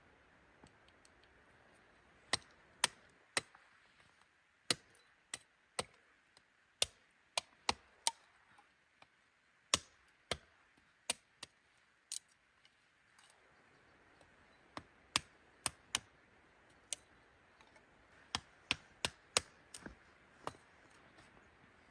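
A series of sharp knocks at an irregular pace, roughly one or two a second, with a pause of about two seconds a little past the middle.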